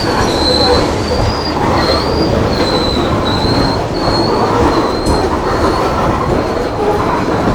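Freight train's cars rolling slowly past with their wheels giving a high squeal that wavers up and down over a steady rumble, as the train slows to a stop.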